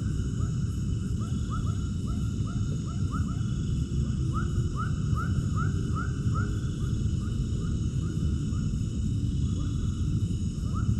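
Repeated short animal calls, about two or three a second, bunched in the middle and thinning out toward the end. They sit over a steady low rumble and steady high-pitched tones.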